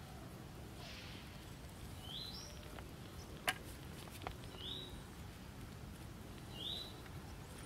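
A bird repeats a short chirp that sweeps upward, three times about two seconds apart, over a steady low background hiss. Two sharp clicks come near the middle, the first the loudest sound.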